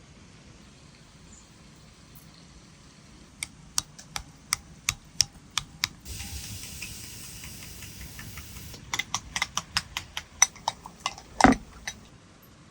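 Knife chopping on a wooden cutting board: a run of sharp, evenly spaced knocks, a few seconds of steady hiss, then faster chopping ending in one louder knock.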